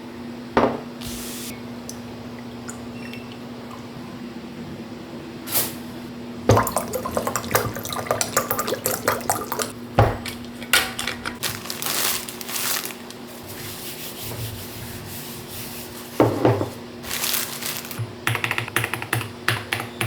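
Water running from a tap in short spells, with small clicks and knocks of handling, over a steady low hum.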